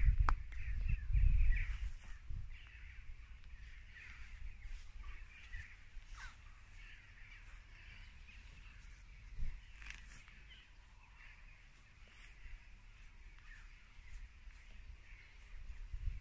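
A continuous chatter of birds calling, with a low rumble on the microphone in the first two seconds.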